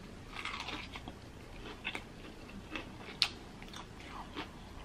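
Close-miked bite into a crispy, hand-breaded fried chicken sandwich on a soft bun, then chewing. A crunch comes about half a second in, followed by scattered short crunches and wet mouth clicks, the sharpest about three seconds in.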